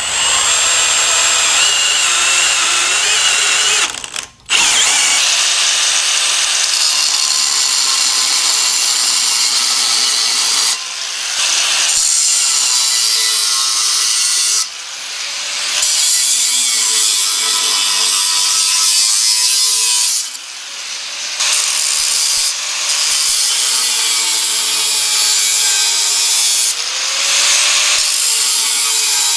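Angle grinder with a cut-off wheel working steel exhaust pipe. It runs loud and steady in several long passes, with short breaks between them.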